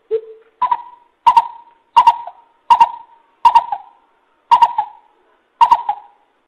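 Coucal (bubut) giving a series of loud hooting calls. One low hoot comes first, then seven higher hoots follow at a steady pace, roughly one and a half a second.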